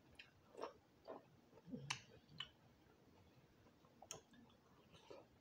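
Faint mouth sounds of someone eating: a scattering of short, sharp wet clicks and smacks from chewing, the sharpest about two seconds in.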